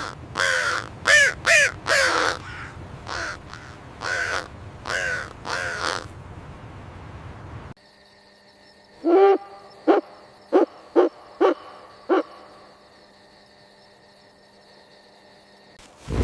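Animal calls from two separate recordings. The first is a string of about nine pitched calls. About eight seconds in it cuts to a lower-pitched call followed by a quick run of five short notes.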